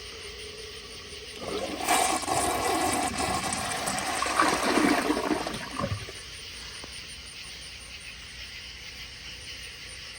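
Crane Hymont toilet flushing: water rushes in suddenly about two seconds in and drains away, ending in a short gurgle about six seconds in.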